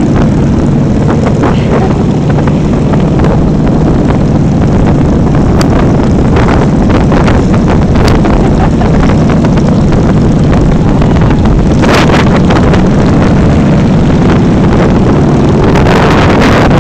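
Motorcycle engine running at a steady pitch under heavy wind buffeting on the microphone.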